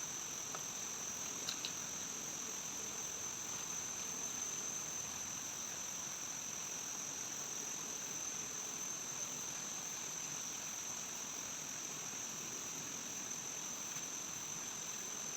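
Steady high-pitched insect chorus holding one unbroken shrill tone, over a soft even hiss of forest background.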